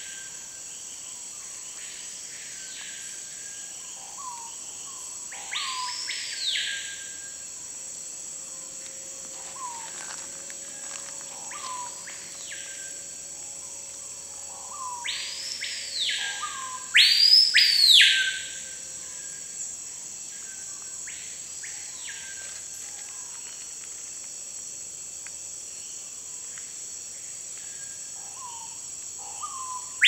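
Screaming pihas calling: loud whistled notes that sweep up and fall back down, each led by a few short soft lower notes, repeated every few seconds with some calls fainter than others; the loudest is a double call about halfway through. A steady high insect buzz runs underneath.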